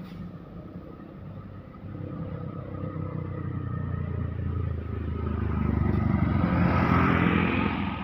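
A road vehicle approaching and passing close by: engine and tyre noise build up steadily, are loudest about seven seconds in, then start to fade.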